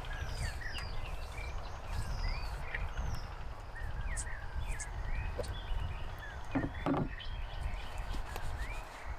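Small birds chirping repeatedly over a steady low rumble, with a couple of brief knocks about seven seconds in.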